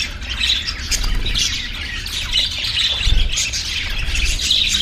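Budgerigars chattering and squawking continuously, a dense high-pitched warble of overlapping calls.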